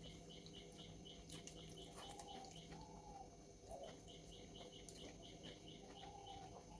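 Faint bird chirping in short runs of quick high chirps, about four or five a second, with pauses between runs, over quiet room tone and a few soft clicks.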